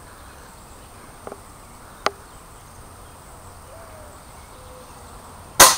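Pellet air gun firing once near the end, a single sharp report. A lighter click comes about two seconds in, over a faint steady background hiss.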